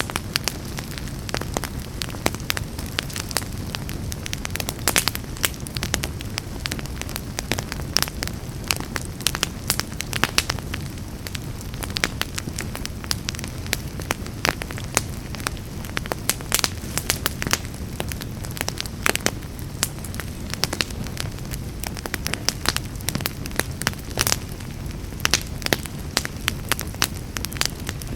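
Wood fire burning in a fireplace: a steady low rumble of flames under frequent sharp crackles and pops.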